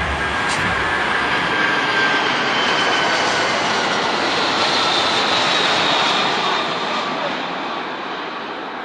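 Large airplane's engines running loud and steady, a rushing noise with faint whining tones that drift slowly in pitch. It swells a little through the middle and eases off near the end.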